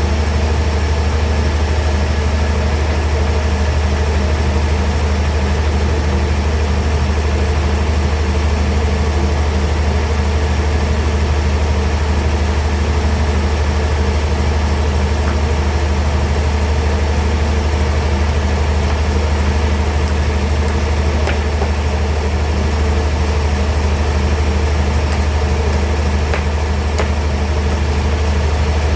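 Band sawmill machinery running steadily, a loud, even low hum with no change in load.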